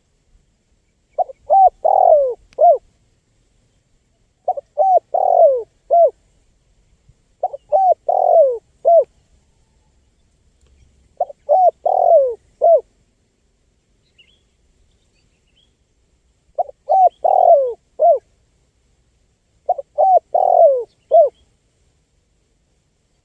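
Spotted dove (tekukur) cooing: six short phrases of several hooting notes each, spaced about three seconds apart, with a longer pause in the middle.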